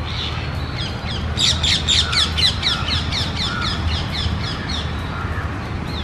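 A bird calling in a quick run of high, falling chirps, about five or six a second, for some four seconds, over a steady low rumble.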